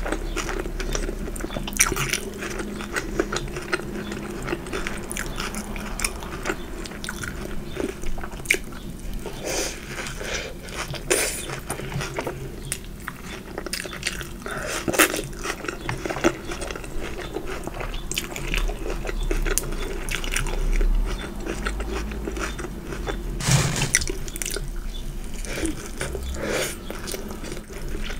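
Close-miked eating: a person biting and chewing fried chicken burger, fries and mac and cheese, with irregular crunches and wet, smacking chewing sounds.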